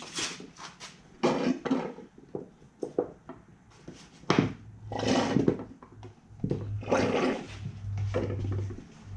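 Irregular clanks, scrapes and rustling of hand work on a car's underside, tools and parts being handled. A low steady hum comes in about four seconds in.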